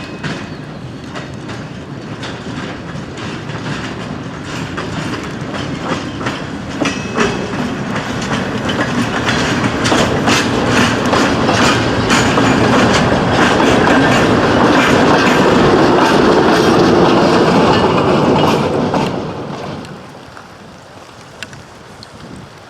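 A short freight train hauled by an EMD SW9 switcher rolls past close by, its wheels clicking over rail joints. The sound grows steadily louder, then drops off sharply near the end as the train moves away.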